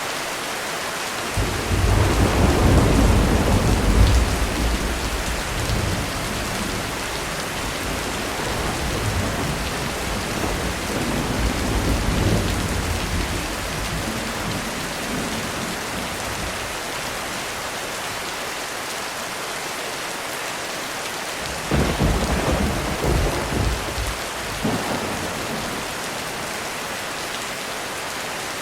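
Heavy rain falling steadily, with rolls of thunder. A long, loud rumble comes a couple of seconds in, a weaker one near the middle, and a sudden crack and rumble about three-quarters of the way through.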